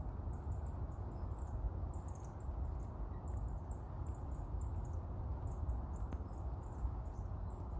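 Crickets chirping in many short, high chirps over a low, steady rumble.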